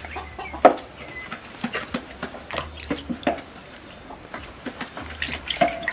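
Irregular light taps and knocks of a serving utensil against a bowl as soft millet TZ is molded smooth, with a couple of short chirps in between.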